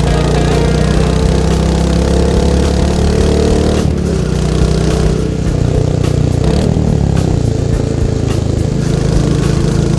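Royal Enfield Meteor 350's single-cylinder engine and stock exhaust pulling under way. The note drops about four seconds in and climbs again near seven seconds as the throttle is eased off and reopened.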